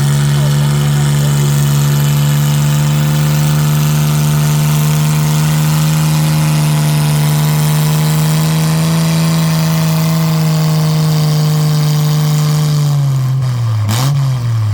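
Farm tractor engine running hard under full load as it pulls a tractor-pulling sled, holding a steady pitch. About 13 seconds in, the engine note drops sharply as the tractor bogs down and the pull ends, with one brief blip before it falls away.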